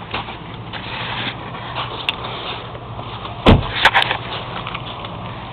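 Car latch release: a heavy thunk about three and a half seconds in, then two sharp clicks, over a steady low hum. It is typical of the trunk lid and fuel door of a 1994 Toyota Camry being popped from inside the car.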